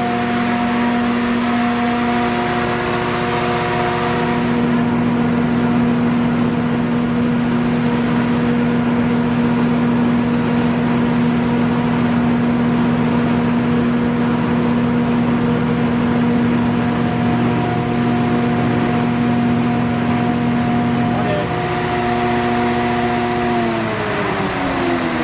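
MTU V8 four-stroke diesel engine of a 370 kW mobile generator set running steadily at constant speed, a loud even hum with a steady whine. Near the end its pitch falls as the engine slows down.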